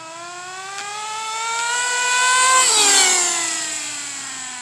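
Nitro RC car's Hyper .21 two-stroke glow engine at high revs, a high buzzing whine climbing in pitch and loudness, then dropping sharply in pitch a little past halfway as the car passes and fading as it moves off.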